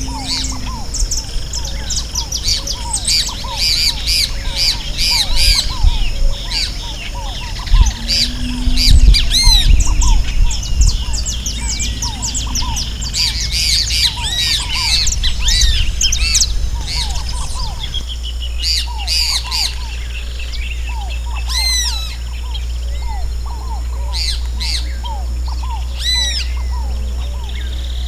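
Chorus of many wild birds chirping and calling over one another, some calls sweeping up and down in pitch, with a steady scatter of short lower calls and a low rumble underneath.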